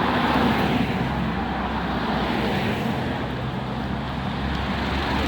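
Road traffic noise: a steady rumble and hiss of passing vehicles, swelling slightly about a second in.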